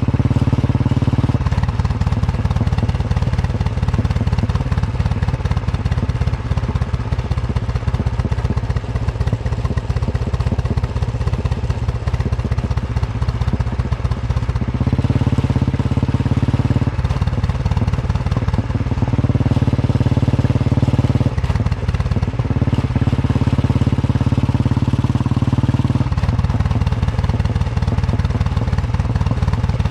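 Royal Enfield Bullet 350's single-cylinder engine thumping steadily on the move, its note shifting in steps several times as the throttle and engine speed change.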